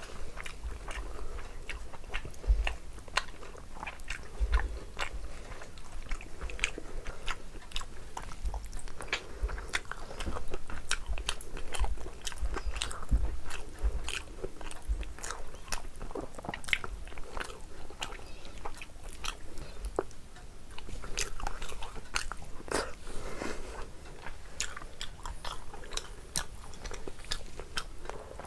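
Close-miked chewing: wet mouth clicks and smacking from a mouthful of food, with occasional crunches. Fingers squelch as they mix rice and curry on a steel plate.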